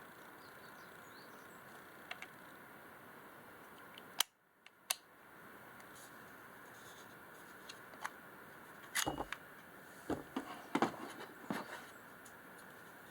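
Scattered sharp clicks and knocks of objects being handled, over a steady low hiss. There is a sharp click about four seconds in, another soon after, and a cluster of knocks in the second half.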